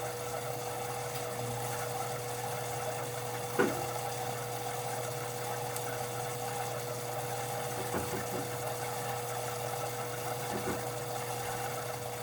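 Whirlpool front-load washing machine running with a steady hum, broken by one sharp thud about three and a half seconds in and two fainter knocks later. The knocking comes from the motor working loose after a machine screw holding the motor sheared off.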